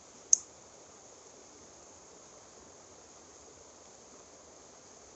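A single sharp click about a third of a second in, then a steady faint high-pitched hiss.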